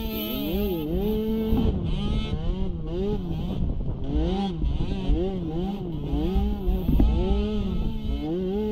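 Small youth-class ATV engine revving up and down in quick, repeated swells about once a second, with a longer held rev near the start and again near the end. Low rumbling and knocks run underneath.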